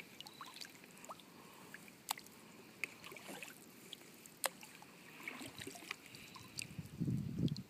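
Canoe paddling on a slow river: water trickling and dripping off the paddle, with scattered light clicks and taps, and a louder swish of a paddle stroke near the end.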